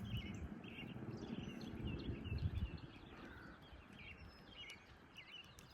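Small birds chirping over and over in quick, short calls. A low rumble sits underneath and dies away about three seconds in.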